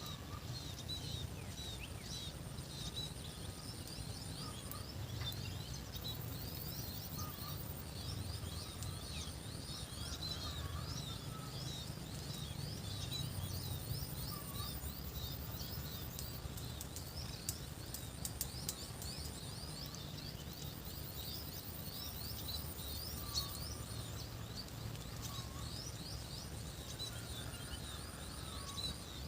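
Rural outdoor ambience: many birds chirping in quick, overlapping short calls, over a steady high-pitched insect drone and a low background rumble, with a few faint clicks in the middle.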